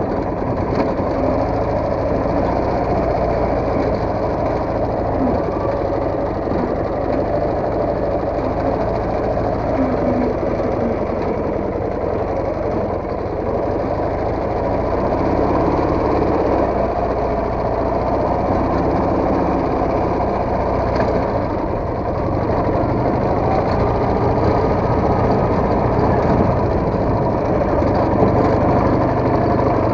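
Soviet motorcycle engine running continuously while riding, its level rising and dipping slightly with the throttle.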